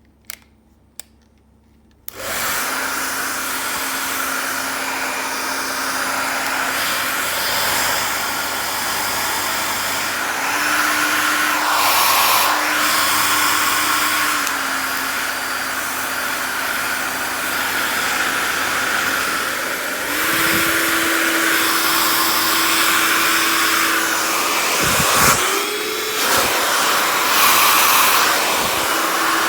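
A few light clicks, then about two seconds in a Wellneo 2-in-1 hair dryer-straightener starts and blows steadily, a loud rush of air over a motor hum. The hum steps up in pitch and back down a few times as the dryer is switched between its settings, and near the end it dips out for a moment before running again.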